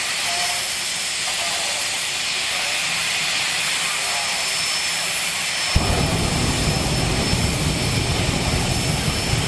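Jet drag-racing vehicle's turbine engine running with a steady high whine and hiss. About six seconds in, a loud crackling rumble cuts in suddenly and lasts about four seconds, typical of the afterburner being lit.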